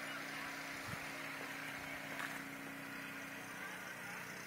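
Faint engine running steadily under a hiss of outdoor noise; the hum fades about three seconds in.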